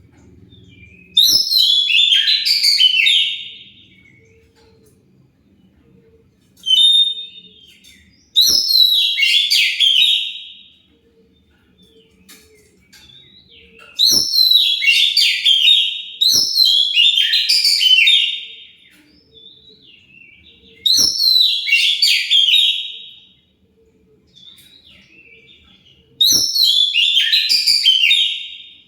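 Oriental magpie-robin (kacer) singing loud, varied warbling phrases of about two seconds each, six of them with short pauses between, plus one brief burst near the seventh second. It is a kacer song of the kind played as a lure (pancingan) to provoke other kacer into answering.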